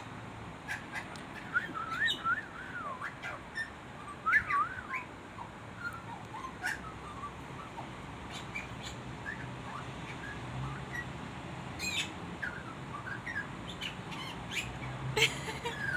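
A small bird singing and chattering in short warbling phrases and chirps, with gaps between. A few sharp ticks come late on.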